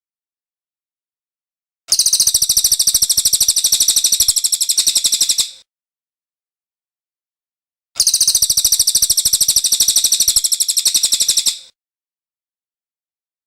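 Cililin bird singing in two bursts of about three and a half seconds each: a fast, even string of high-pitched chirping notes, with dead silence between the bursts, as in a looped bird-training (masteran) recording.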